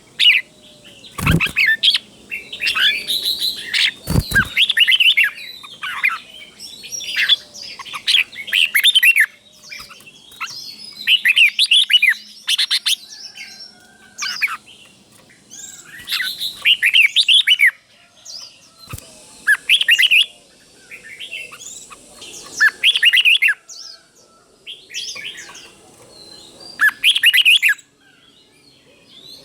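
Red-whiskered bulbul singing its short, bright, warbling phrases again and again, with a break of a second or two between them, in the doubled style prized in Thai songbird keeping. Two sharp knocks come about a second and about four seconds in.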